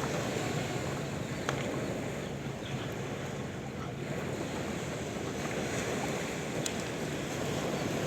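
Sea waves washing on a shore: a steady rush of surf with wind.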